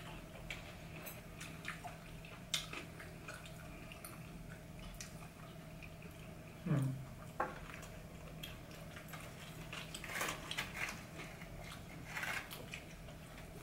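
Quiet eating sounds: soft chewing and lip-smacking on pizza and chicken wings, with scattered small clicks, over a steady low hum. A short falling "mm" comes about seven seconds in.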